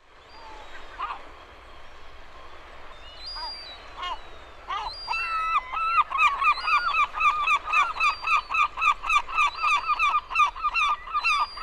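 A large bird calling over and over: a few spaced calls at first, then from about halfway a fast, even run of about four calls a second.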